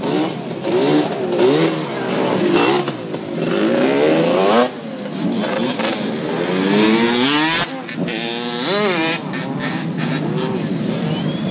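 Several motorcycle and dirt bike engines revving over one another, their pitch repeatedly rising and falling. A high warbling tone starts near the end.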